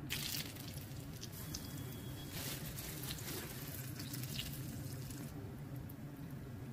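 Bread pakoras deep-frying in hot oil in a pan: a steady sizzle with scattered crackles that dies down about five seconds in.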